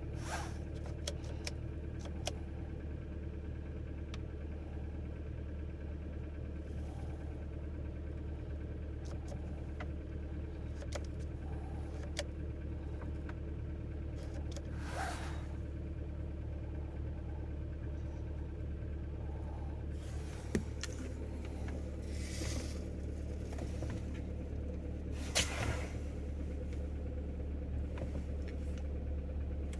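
Opel Astra J 1.6 turbo four-cylinder petrol engine idling steadily, still warming up after a cold start at about minus five degrees. A few short clicks and three brief rushing sounds come over the idle, and about two-thirds of the way through a new steady tone joins the idle.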